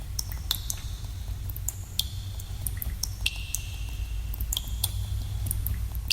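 Water drops falling irregularly into pools in a cave, each landing as a short plink with a brief ringing tone. A steady low rumble runs beneath them.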